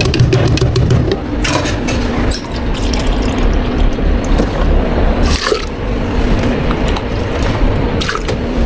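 Liquid pouring and dripping into a drink cup, with a few short rushes and light clicks over a steady low hum.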